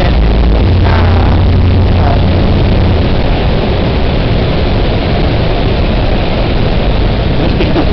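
Speedboat engine running under a loud, steady rushing noise. A deep hum is strongest for the first three seconds, then eases.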